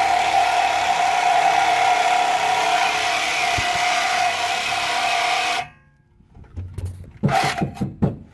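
Electric power saw cutting into the steel exhaust pipe of a 1994 Chevy S10: a steady, high-pitched motor whine with a harsh rasp that stops abruptly about two-thirds of the way through. Short bits of voices follow near the end.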